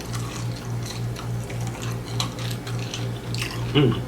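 A person eating close to the microphone: scattered crunching and smacking clicks of chewing fried food, with a brief hum of the voice near the end. A low hum pulsing about three to four times a second runs underneath.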